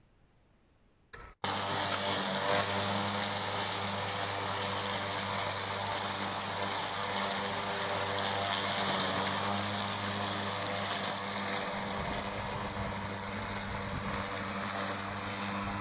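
Spider eCross battery-electric slope mower running: a steady mechanical whir and low motor hum from its electric drive and cutting blade. It starts about a second and a half in, after near silence.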